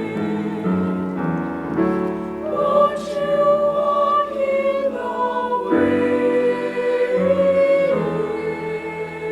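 High school choir singing a slow passage of long, held chords, with several voice parts in harmony.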